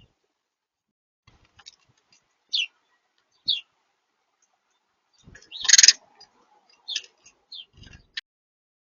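Small birds chirping at a feeder: short high chirps a second or so apart, with a louder, noisier burst a little before six seconds in and a few faint low knocks against the feeder.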